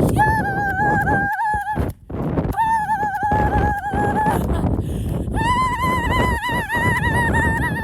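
A person's voice holding three long, high, wavering notes, like sung 'ooh's, each lasting about two seconds with short breaks between, over a steady low rumble of wind on the microphone.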